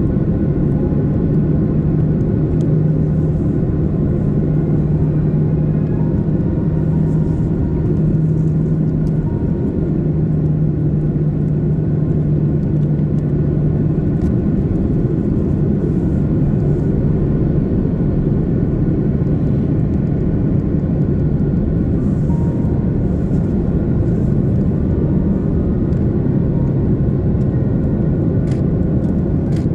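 Steady airliner cabin noise inside an Airbus A330-300 powered by GE CF6-80 engines: a loud, even rumble with a low steady hum that fades out midway and returns near the end.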